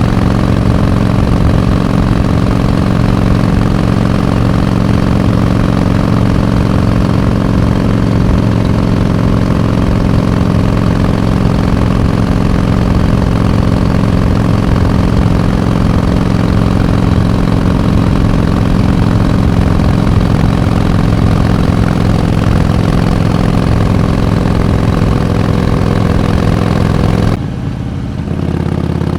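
Harley-Davidson Iron 883's air-cooled 883 cc V-twin running at a steady engine speed. Near the end the sound abruptly turns quieter and duller.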